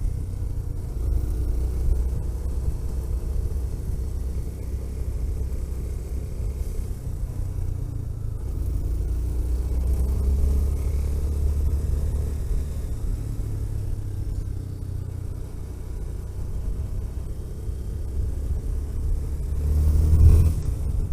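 Car driving on the road: a steady low rumble of engine and road noise. The engine note rises and falls gently, and it swells louder near the end.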